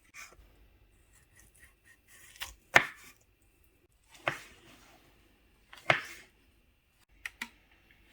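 Knife slicing sausage on a cutting board: a handful of separate knocks of the blade on the board, a second or more apart, the loudest a little under three seconds in.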